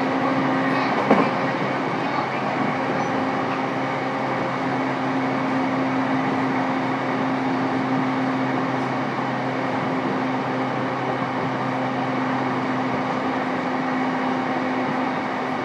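Interior sound of a JR East E233-3000 series electric commuter train's motor car: a steady hum with a held tone and no rise or fall in pitch, with a single click about a second in.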